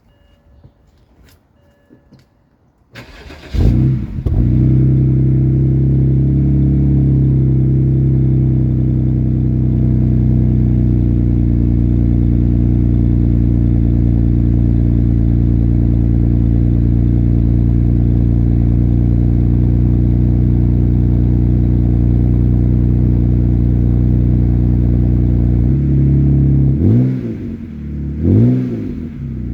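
A 2007 BMW 328xi's 3.0-litre inline-six starting about three seconds in and settling into a steady idle through its muffler-deleted exhaust, a straight pipe with the resonators kept. Near the end the throttle is blipped twice, the revs rising and falling each time.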